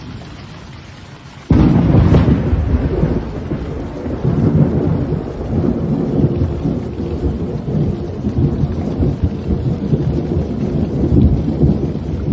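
Thunderstorm: rain hissing, then about a second and a half in a sudden loud clap of thunder that carries on as a heavy, rolling rumble under the rain.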